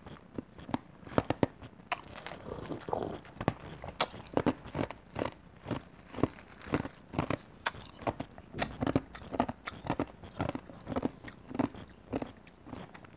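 Close-miked chewing of crunchy caramel-coated popcorn with pretzel pieces: a steady run of crisp crunches, about two or three a second.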